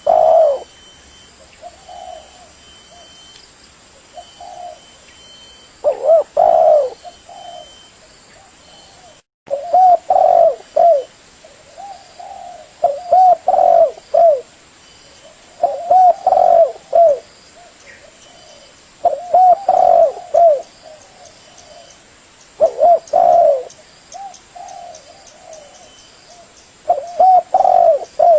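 Spotted dove (tekukur) cooing: a phrase of several low coos every three to four seconds, with softer coos in between. The sound drops out for a split second about nine seconds in.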